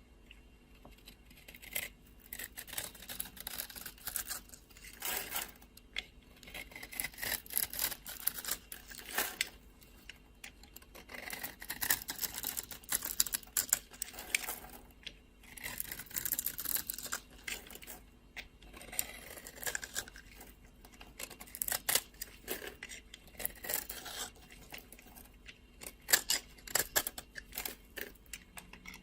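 A knife cutting and scraping through dry soap, in an irregular series of crisp, crackly strokes with short pauses between them.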